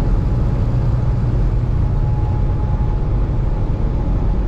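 Steady low rumble of engine and road noise inside a moving vehicle cruising on the highway.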